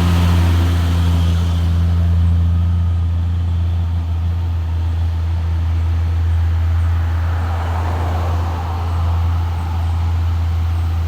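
Heavy diesel truck engine droning steadily at low revs, a deep even hum that holds its pitch throughout.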